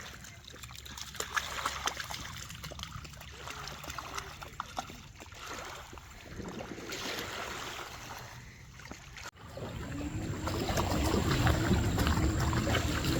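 Water lapping and trickling at the shoreline, with scattered small splashes and ticks. After a sudden cut about nine seconds in, a louder low rumble with a faint wavering hum takes over.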